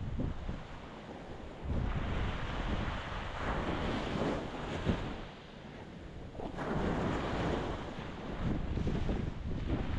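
Ocean waves breaking on a rocky shore, the surf rushing in surges that swell about two seconds in and again shortly after the middle, with wind buffeting the microphone.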